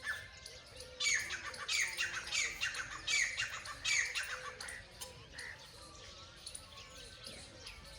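A bird squawking: a run of about six harsh calls, each sweeping downward in pitch, starting about a second in, then only faint chirps.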